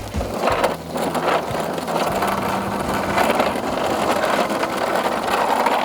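Razor electric mini dirt bike's motor and chain drive running steadily as the bike rides off, with a continuous whirring hum.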